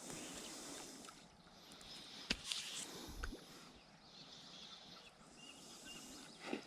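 Faint river ambience: a soft, steady rush of water, with a sharp click a little over two seconds in and a few light knocks.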